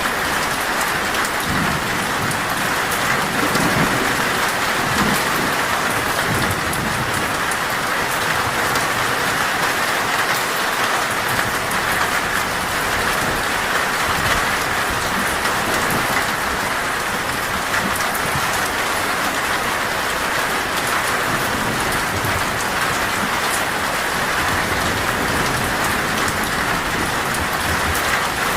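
Torrential rain drumming steadily on a metal roof, a dense even patter, with low thunder rumbling now and then underneath.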